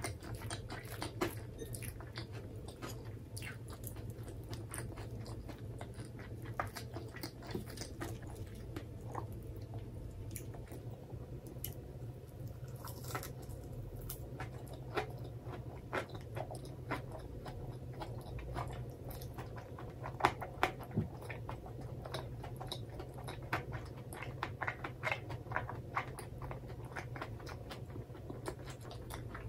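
Close-miked chewing and biting of karaage (Japanese fried chicken) and crisp lettuce: irregular wet crunches and mouth clicks.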